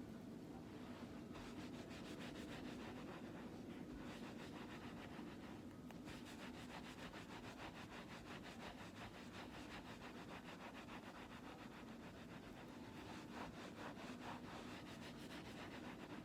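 Hands rubbing against each other, a faint, quick and even rubbing that goes on in spells.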